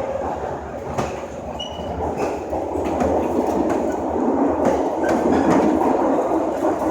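SMRT C651 metro train running on the rails: a steady rumble of wheels on track with a few clacks over rail joints, growing louder about halfway through.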